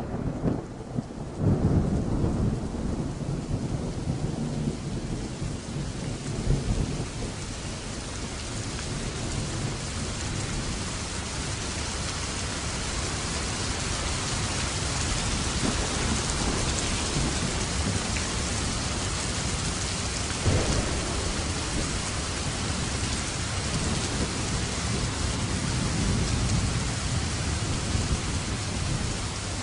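Steady heavy rain with thunder rumbling loudly through the first several seconds, then the rain alone, with one short low thump about two-thirds of the way through.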